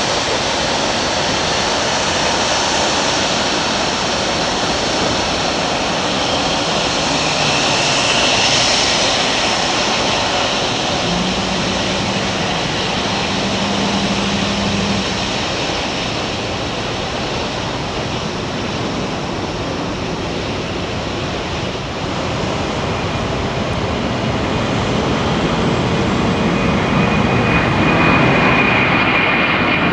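Jet aircraft engines running loud and steady, with a high thin whine that grows stronger in the last few seconds.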